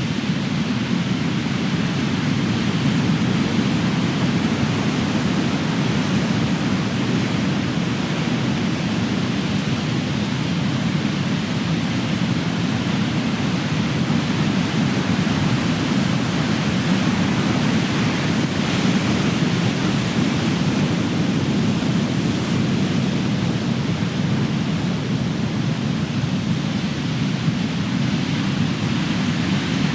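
Ocean surf: big waves breaking and washing in a continuous, steady rumble of surging water.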